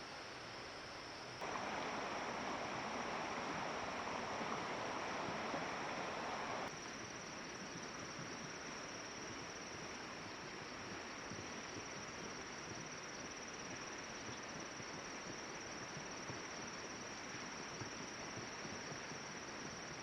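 Steady outdoor ambience: a continuous high insect drone over a soft hiss of water or rain. A louder rushing noise comes in abruptly about a second and a half in and cuts off just as suddenly about five seconds later.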